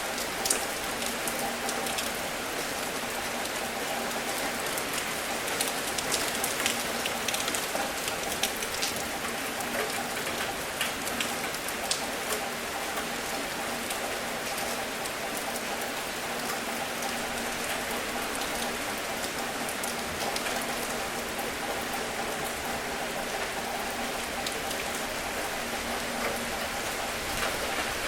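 Steady rain falling, an even hiss with many individual drops tapping distinctly throughout.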